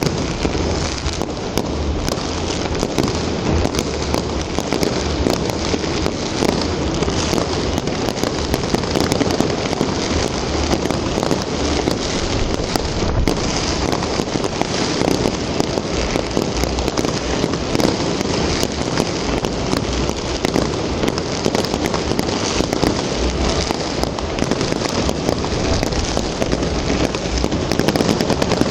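Fireworks going off in a continuous, dense crackle of many small bursts.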